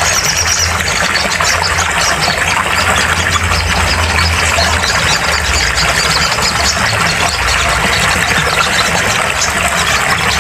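Sogon bird song played as a loud, dense recording: rapid high chattering notes run on without a break over a hissy background and a low hum.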